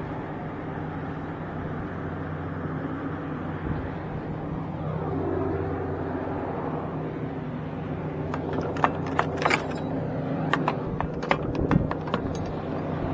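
Semi truck's diesel engine idling steadily. In the second half there is a quick run of sharp clicks and knocks.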